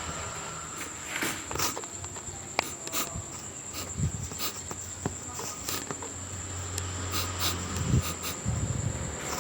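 A steady high-pitched trill, like an insect, runs on unbroken, with scattered light taps and knocks as kittens bat and kick a turmeric root around.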